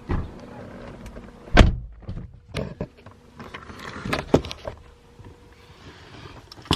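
A few knocks and thumps around a car, the loudest a dull thump about a second and a half in, over a faint steady hum.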